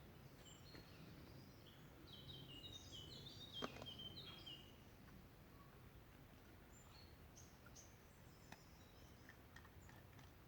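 Faint birdsong in quiet open air: a quick run of high chirping notes from about two to five seconds in, with a single sharp click in the middle of it, then scattered short chirps.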